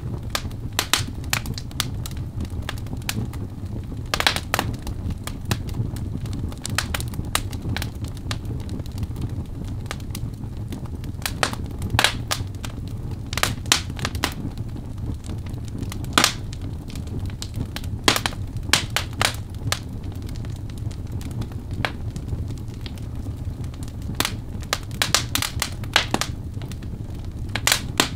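Birchwood fire burning in a fireplace, crackling with irregular sharp pops and snaps over a steady low rumble of the flames.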